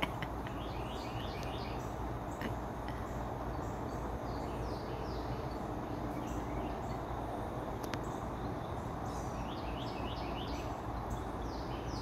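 Small birds chirping in quick series of short falling notes, about a second in and again near the end, over steady outdoor background noise. A single faint click near the middle.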